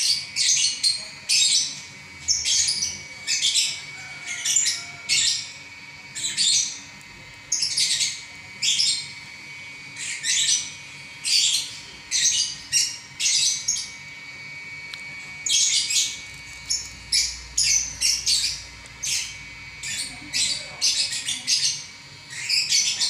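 Lovebird singing in a long, unbroken run of shrill, chattering bursts, about one or two a second. This is the continuous 'ngacor' song prized in contest lovebirds.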